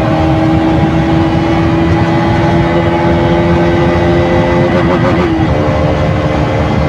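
KTM RC 200's stock exhaust, its single-cylinder engine running at a steady speed while the bike is ridden, with a brief wobble and slight drop in pitch about five seconds in.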